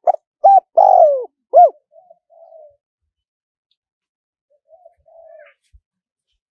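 Spotted dove cooing: a loud phrase of four coos, the third drawn out and falling in pitch, followed by two short runs of softer, low coos.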